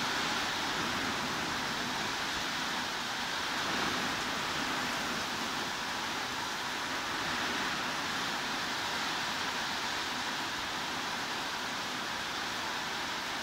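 Steady heavy rain: an even, unbroken hiss with no separate drops or other sounds standing out.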